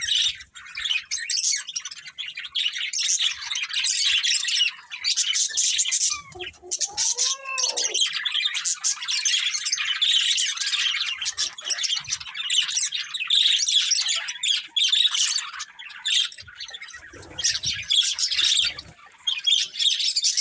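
Budgerigars chattering and chirping without pause, a busy, high warble of squawks and tweets, with a short lower, gliding call about six to eight seconds in.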